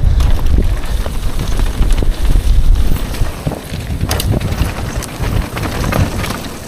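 Wind buffeting the microphone in a loud, continuous low rumble, with scattered knocks and rattles through it.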